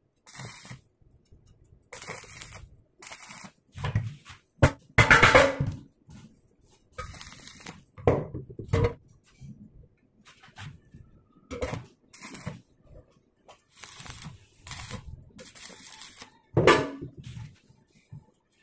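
Irregular knocks and clatter: about a dozen short, separate bangs with near silence between them, the loudest about five seconds in and again near the end.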